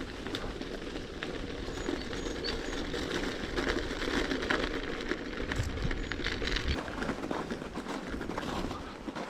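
Bicycle tyres crunching and crackling over frozen snow crust while riding, a steady dense crackle with many small clicks.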